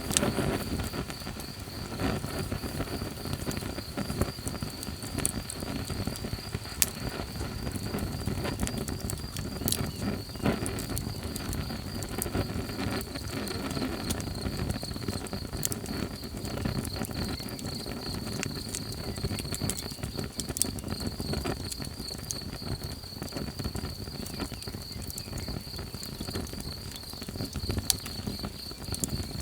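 Campfire crackling, with sharp pops here and there, under a steady high insect trill like crickets chirping.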